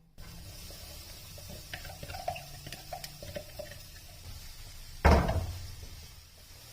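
Kitchen handling sounds: a few light clicks and knocks, then a single loud knock about five seconds in that dies away over about a second.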